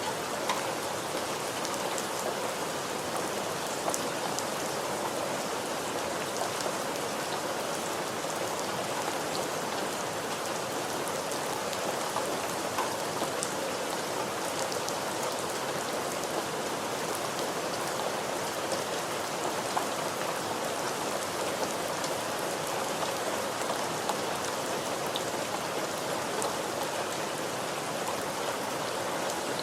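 Steady rain falling on a surface, a continuous even hiss with scattered individual drop ticks.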